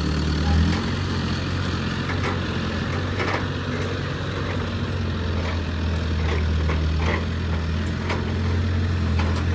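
Diesel engine of a heavy crane running steadily under work, its pitch dropping slightly under a second in, with a few faint knocks.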